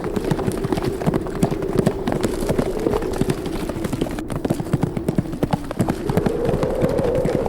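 Horses' hooves galloping, a dense, irregular clatter, over a steady howl of wind that sinks in pitch and rises again near the end.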